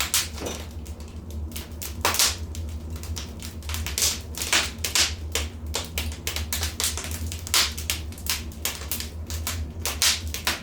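Wood fire crackling in a fireplace: many irregular sharp pops and snaps, some louder than others, over a steady low rumble.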